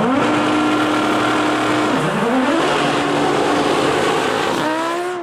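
Race car engine at high revs under hard acceleration. Its note climbs, drops sharply about two seconds in at an upshift and climbs again, then rises once more near the end.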